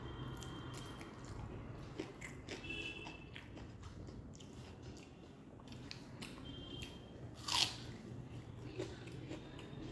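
Mouth sounds of eating rice with yellow dal and fried potatoes by hand: chewing with small crunchy bites and scattered clicks, and one louder sharp mouth sound about three-quarters of the way in.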